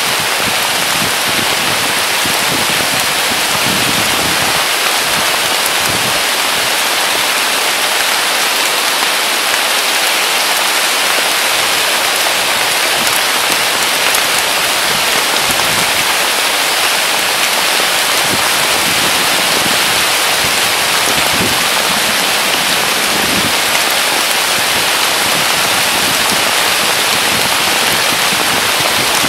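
Heavy rain pouring down steadily: a dense, even hiss of falling rain on foliage and grass.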